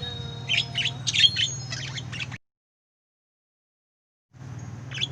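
Pet lovebirds chirping and squawking in quick, high, sharp calls over a steady low hum. The sound cuts to dead silence about two and a half seconds in, and the hum and calls come back near the end.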